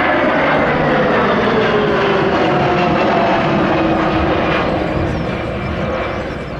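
Kawasaki P-1's four IHI F7 turbofan engines running loud as the jet passes and pulls up and away, their whine falling steadily in pitch. The sound fades over the last second or two.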